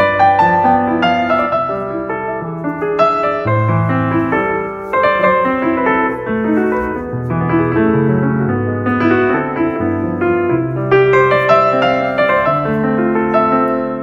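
Background piano music: a gentle piece of struck notes and held chords over a slow bass line.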